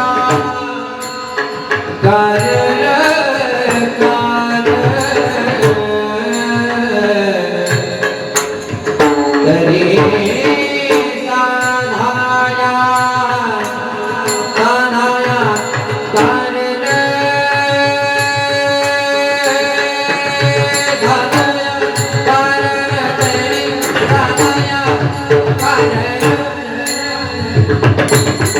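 Devotional singing by male voices accompanied by a pakhawaj barrel drum, with dense rhythmic drum strokes under the melody and a long held sung note about two-thirds of the way through.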